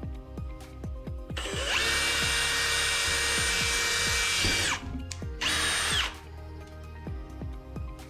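Power drill boring the knob hole through a bifold closet door: it spins up to a steady high whine for about three and a half seconds and winds down, then runs again in one short burst. Faint background music underneath.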